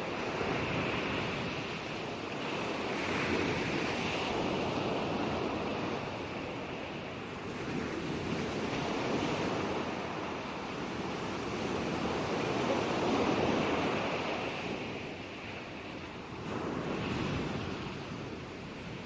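Ocean waves breaking and washing ashore in a continuous surf, swelling and ebbing every few seconds.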